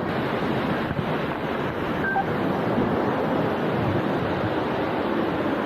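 Waterfall pouring close by: a steady rushing of falling water.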